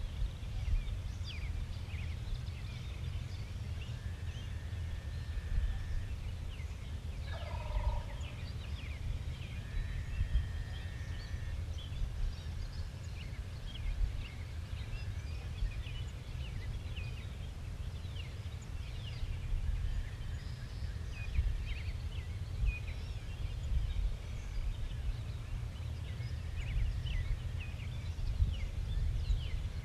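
Birds calling outdoors: many short chirps and a few held whistled notes over a steady low rumble, with one lower, rougher call about eight seconds in.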